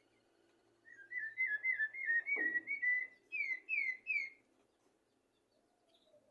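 Common blackbird singing one phrase of about three and a half seconds: a quick run of warbled whistled notes, then three downward-slurred whistles. There is a brief low thump partway through.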